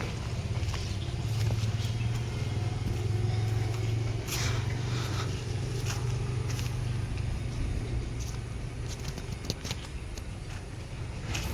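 Low, steady engine rumble of a motor vehicle, strongest in the first half and easing off later, with a few light scrapes over it.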